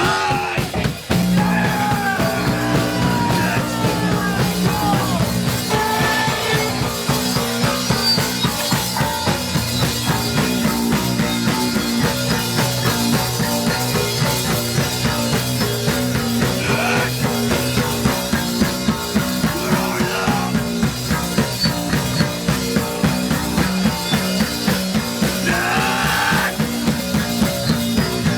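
A punk band playing live: distorted guitar and bass held under fast, steady drum hits, about three a second.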